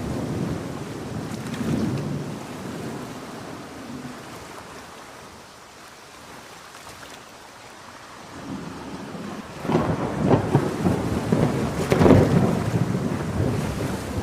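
Thunder rumbling over steady rain, dying down to a lull midway, then a loud crackling thunderclap about ten seconds in that rolls on near the end.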